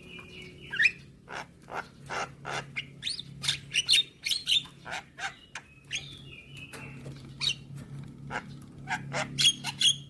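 Javan myna (jalak kebo) singing a fast, varied chatter of sharp clicks, squeaks and short whistled notes, over a steady low hum.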